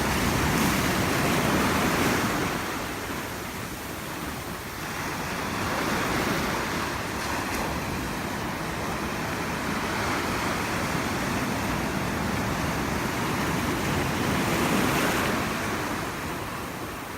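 Gentle ocean waves lapping and washing on the shore, the wash swelling and fading every several seconds.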